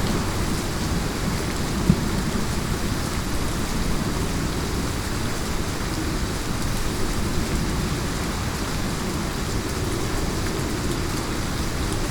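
Heavy rain falling steadily over a low storm rumble, with one sharp crack about two seconds in.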